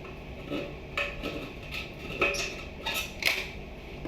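Irregular knocks and clinks of hard objects being handled, about six in four seconds, several with a short metallic ring.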